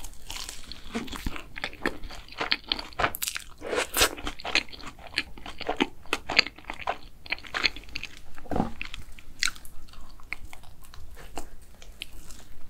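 Close-miked biting and chewing of a soft doughnut filled with earl grey whipped cream: an irregular run of wet mouth clicks and smacks as it is chewed, with another bite taken near the end.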